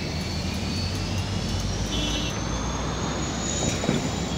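Passenger train coaches rolling past, a steady rumble with a thin high whine slowly rising in pitch and a single louder knock near the end.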